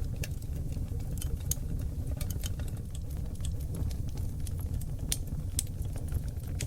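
Seasoned oak logs burning in a wood fireplace: a steady low roar of flame with frequent sharp crackles and pops.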